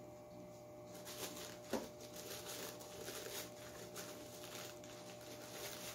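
Faint, irregular rustling and scraping of a firework's paper and cardboard casing being handled and opened by hand, with one sharp tap about two seconds in.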